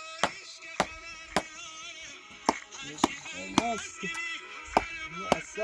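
Sharp single strikes, roughly two a second and unevenly spaced, over background music with a wavering singing voice.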